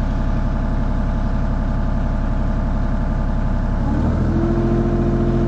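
Mini excavator engine running steadily while digging. About four seconds in, its note changes and a steady higher hum comes in.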